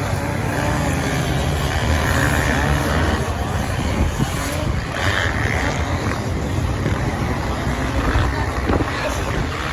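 Racing engines of off-road motorbikes and quads running at speed on the sand, a steady dense din with wind buffeting the microphone.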